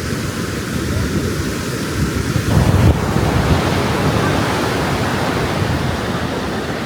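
Ocean surf washing onto the beach, with wind buffeting the microphone in uneven low gusts, the strongest a little before the middle.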